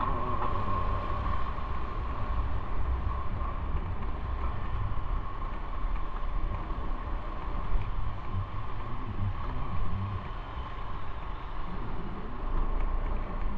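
Motorcycle on the move: steady engine and road rumble with wind rushing over the microphone, level and unbroken.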